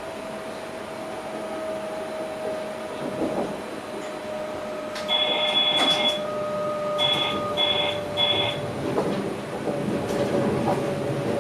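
Inside a train's driving cab: a steady whine that sinks slightly in pitch runs under the noise of the train. About five seconds in, an electronic cab signal sounds one tone about a second long, then three short beeps. Near the end, rumble and clatter from the wheels on the track grow louder.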